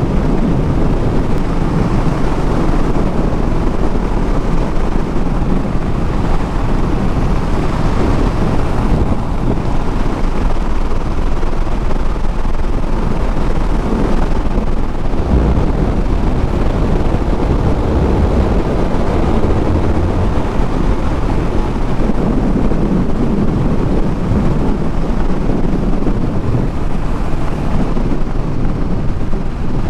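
Motorcycle cruising at steady speed: engine running under heavy wind noise buffeting the microphone.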